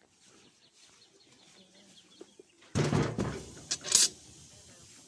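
Chickens clucking faintly, then a sudden loud rustling clatter almost three seconds in, with a second sharp clatter about a second later.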